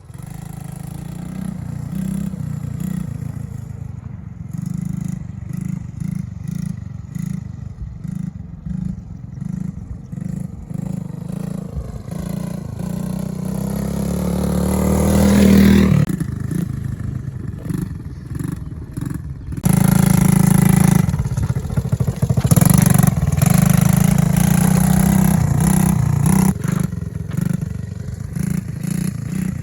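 Small mini-ATV engine running under varying throttle, its pitch climbing steadily to a peak about halfway through and then dropping off abruptly, followed by further loud surges of throttle.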